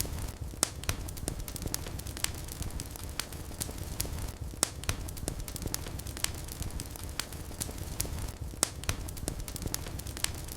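Fire burning in a fireplace, crackling with irregular sharp pops and snaps over a low, steady rumble of flames.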